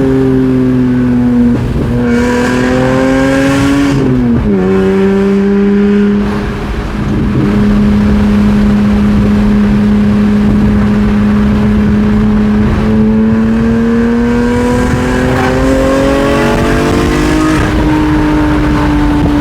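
BMW E46 M3's S54 inline-six through a Valvetronic exhaust, pulling through the gears. The revs climb, drop sharply at a gear change about four seconds in, hold steady for several seconds, then climb again and step down at another shift near the end.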